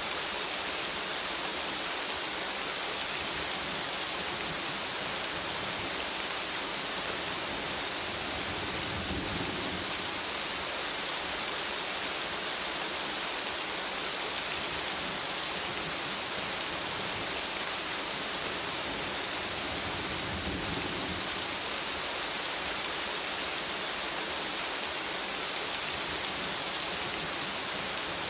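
Steady rain falling on forest foliage, an even hiss with no let-up. Two brief low rumbles swell and fade, about 9 and 20 seconds in.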